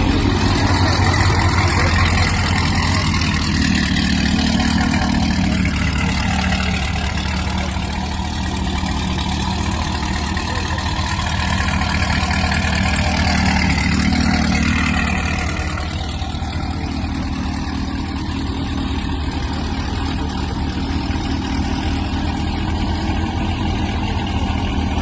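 Car engines running at a car meet, a steady low rumble. It is louder for the first five seconds and again briefly about halfway through.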